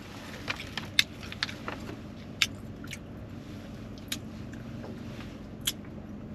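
A person chewing a mouthful of burrito with the mouth closed, with a few short, sharp wet mouth clicks. Under it runs a steady low hum inside the car.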